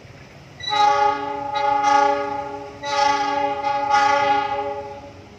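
Train horn sounding two long, steady blasts back to back, each about two seconds, the second fading out.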